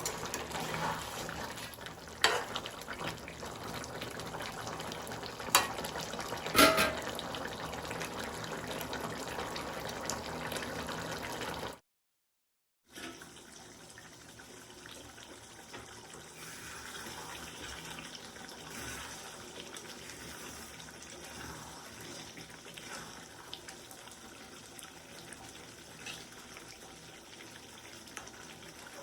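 Steady watery running or bubbling sound with a few sharp clinks in the first half; after a brief cut it goes on quieter and steady.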